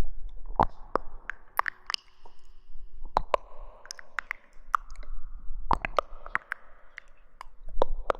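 Close-miked ASMR rustling: irregular crisp crackles and sharp little clicks, coming in clusters with short pauses between them.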